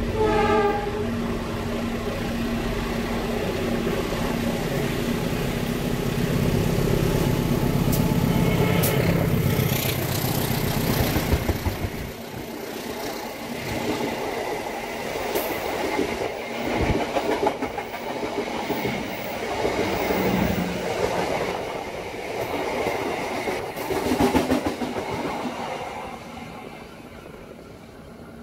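A passenger express train passes at speed on the adjacent track. For the first twelve seconds or so its diesel locomotive's engine rumbles past, with a brief horn at the start. Then the carriages rush by with wheels clacking rapidly over the rail joints, fading away near the end.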